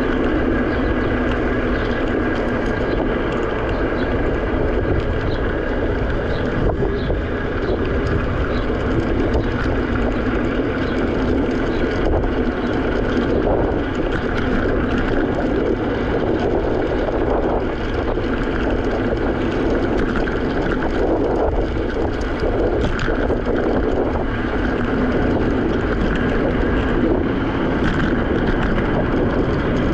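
Steady wind noise on the GoPro microphone and the rolling noise of a Segway Ninebot electric scooter riding along.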